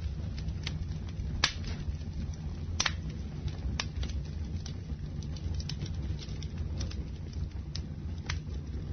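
Campfire burning: a steady low rumble of the flames, with irregular sharp crackles and pops of the wood, the loudest about a second and a half and about three seconds in.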